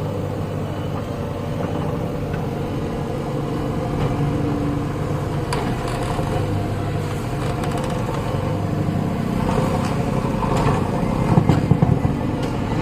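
JCB backhoe loader's diesel engine running steadily, growing louder near the end with a few sharp knocks.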